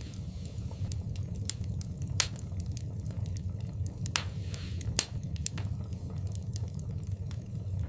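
Wood fire in a fireplace crackling, with sharp pops at irregular intervals over a steady low rumble, and a short hiss about four seconds in.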